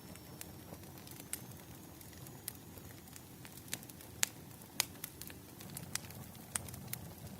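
Firewood burning with irregular crackles and sharp pops over a low steady hiss. The loudest snaps come a little past the middle.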